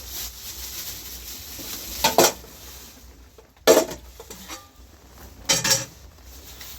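Cooking utensil clanking against a cooking pot three times, each a sharp knock with a brief ring, about a second and a half to two seconds apart.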